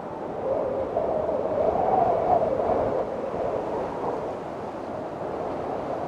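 Windstorm wind blowing with a wavering howl that rises and falls in pitch. A gust builds about half a second in, is loudest around two seconds in, then eases off.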